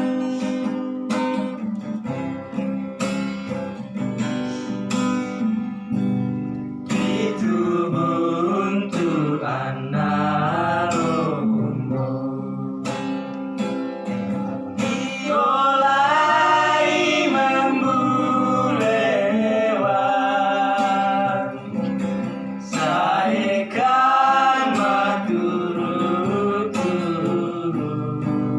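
A voice singing, with wavering held notes, over strummed acoustic guitar; the guitar plays alone for about the first seven seconds before the singing comes in.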